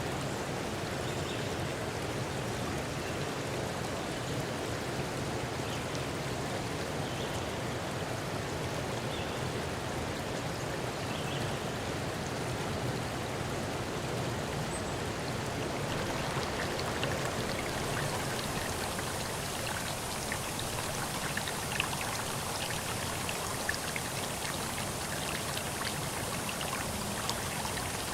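Steady rush of running water. A little past halfway it turns brighter and hissier, with scattered drips and small splashes.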